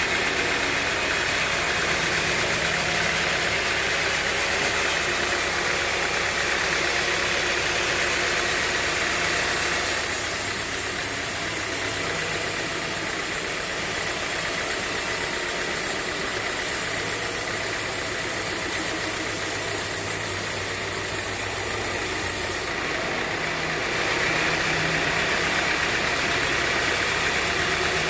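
Sawmill bandsaw running steadily, a constant machine drone with hiss. The sound changes about ten seconds in and changes back roughly thirteen seconds later.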